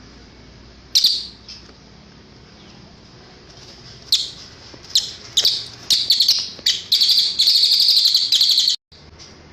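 Cililin song: a single sharp high chirp about a second in, then chirps from about four seconds in that come faster and faster and run into a rapid trill, which cuts off suddenly near the end.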